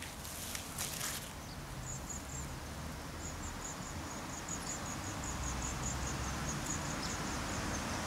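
A small songbird calling in a run of quick, thin, high chirps from about two seconds in, over a steady low outdoor rumble.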